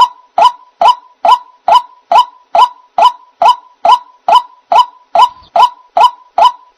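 White-breasted waterhen (ruak-ruak) calling: a short, loud, pitched note repeated evenly a little over twice a second, about sixteen times, as played for luring the bird.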